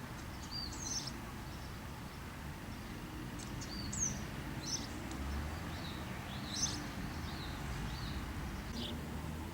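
Small birds giving short, high chirps and quick gliding whistled calls, scattered irregularly, over a steady low background rumble.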